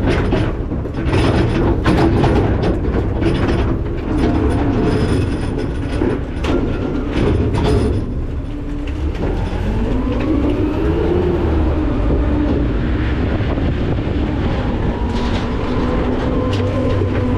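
McNeilus ZR garbage truck working its hopper: metal clanks and rattles as trash and the packing mechanism move, with a hydraulic whine rising and falling about ten seconds in, over the truck's steady engine rumble.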